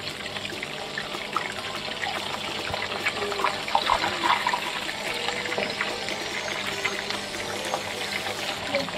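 Paneer cubes sizzling and crackling as they shallow-fry in hot oil in a nonstick pan, with a metal turner now and then tapping and scraping the pan.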